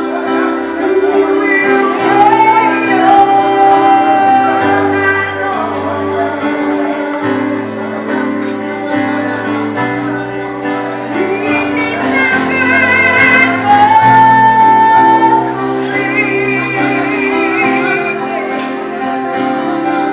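A woman singing a slow gospel song over steady held accompaniment chords. She holds long notes with a wavering vibrato.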